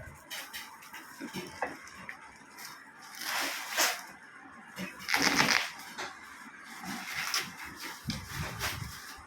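Packaging being handled during an unboxing: irregular bursts of rustling and scraping from cardboard and plastic wrapping, the loudest about halfway through.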